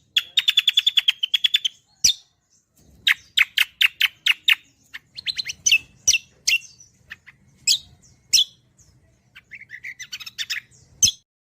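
Cucak songbirds calling: fast trills of repeated chipping notes and single sharp chirps in quick bursts, which stop abruptly near the end.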